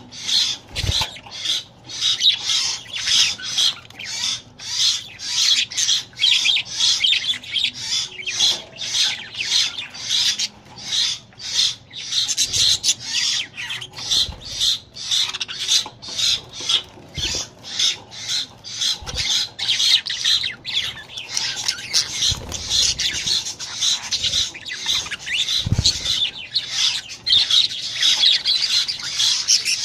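Budgerigars chattering and squawking nonstop in fast, overlapping bursts, with a few short low thumps here and there.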